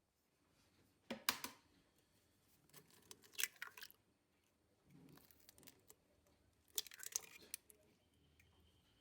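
Four short bursts of clicking and crackling, about a second in, around three to four seconds, around five, and around seven, as of ingredients and containers being handled.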